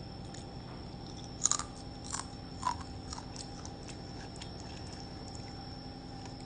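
Crunchy fried grasshoppers being bitten and chewed: the loudest crunch comes about one and a half seconds in, two more follow within the next second, then softer chewing clicks.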